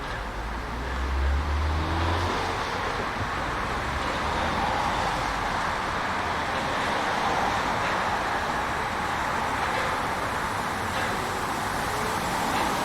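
A vehicle running past: a low engine rumble in the first two seconds, then a steady rushing rolling noise.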